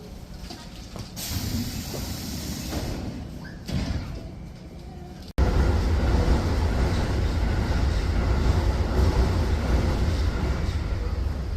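Train rumbling, loud and steady with most of its energy low down, coming in abruptly about five seconds in after a quieter stretch with a brief hiss.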